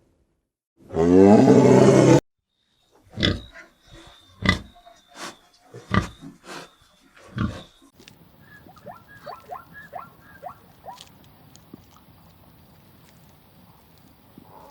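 Animal calls cut together one after another: first a loud pitched call that cuts off abruptly, then a series of short, sharp grunts, then a run of short falling chirps over faint background.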